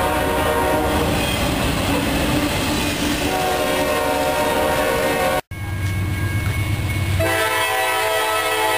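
Freight train rolling past with wheel clatter from its trailer-carrying flatcars, and a diesel locomotive horn sounding a steady chord over it. The sound breaks off sharply past the middle; after a low locomotive rumble the horn sounds again near the end.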